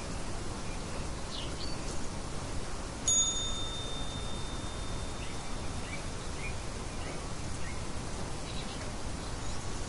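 A single bell-like timer chime strikes about three seconds in and rings for a second or two before fading, marking the end of the timed session. Under it runs a steady nature ambience with faint, scattered bird chirps.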